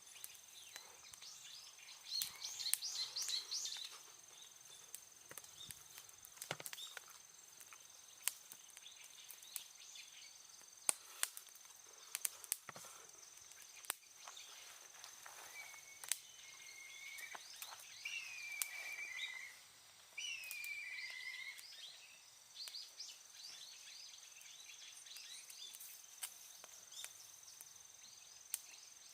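Outdoor ambience: a steady high-pitched insect drone, with bird calls around the middle and scattered sharp clicks throughout.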